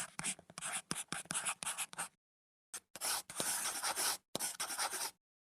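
A run of quick, faint scratching strokes, like something scraped or rubbed in short strokes, with a short pause about two seconds in.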